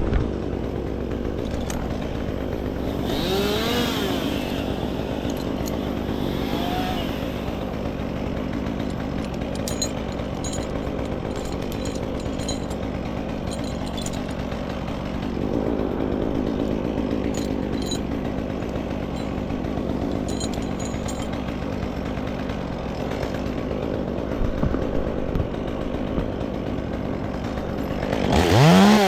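Chainsaw running, its engine pitch rising and falling a few times, then revving up sharply to full throttle near the end.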